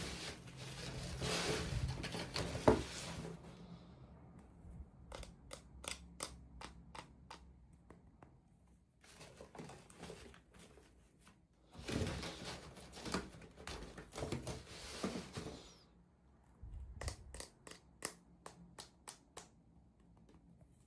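Hands unwrapping and handling the plastic packaging of miniature toys: bursts of crinkling rustle, with runs of small, sharp clicks between them.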